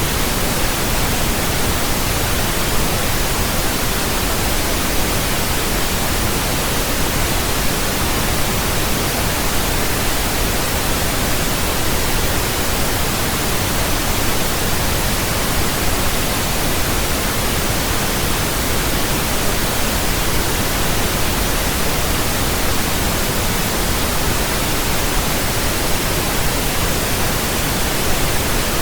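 Steady pink noise: an even, flat hiss spread across all pitches with a deeper rumble than white noise, unchanging throughout.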